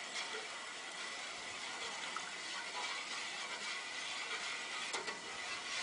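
Soup simmering in a pot on a Coleman two-burner camp stove: a steady watery hiss with a faint steady tone, broken by a few light clicks.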